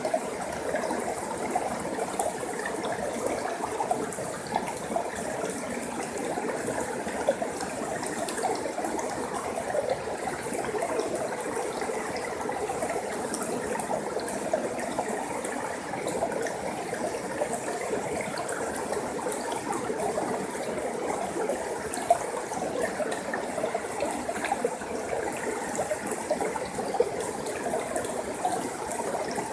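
Forest stream water flowing steadily over rocks, a continuous rushing with many small splashes and gurgles.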